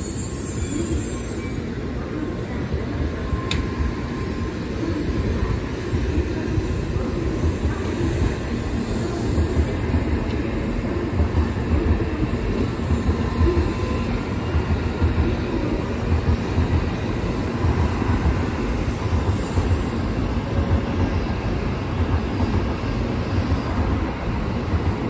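N700-series Shinkansen train running past along the platform track: a steady low rumble of wheels and running gear that grows a little louder a few seconds in.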